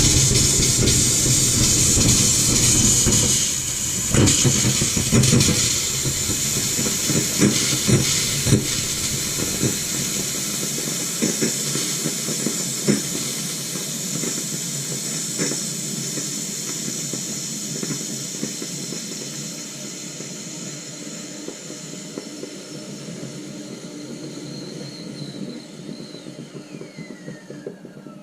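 Household tap running full with air in the lines after a water heater refill, spitting and sputtering in bursts for the first ten seconds or so, then settling into a steadier hissing flow that slowly gets quieter as the air is purged.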